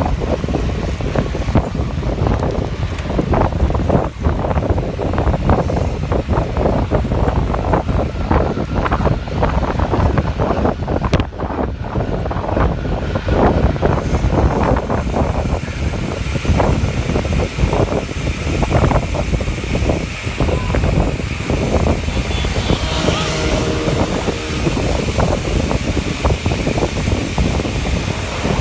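Wind buffeting the microphone of a camera on a moving bicycle: a loud, gusty rumble.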